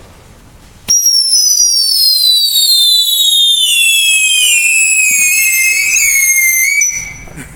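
Two whistling ground fireworks shrieking together, their high whistles starting sharply about a second in and falling slowly in pitch for about six seconds before cutting off. They are loud and give no pops.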